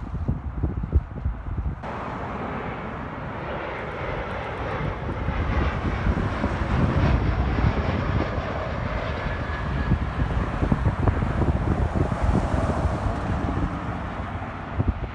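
Airliner on approach to land passing the microphone: its engine noise comes in about two seconds in, swells to a peak midway and eases toward the end. Wind buffets the microphone throughout.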